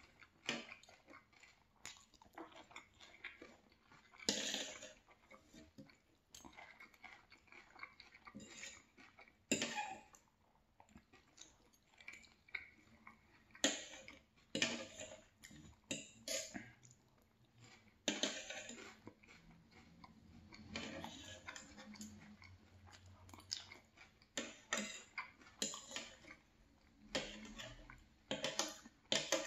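A person chewing mouthfuls of fried fish and potatoes, with a steel knife and fork clicking and scraping against the plate at irregular moments between bites.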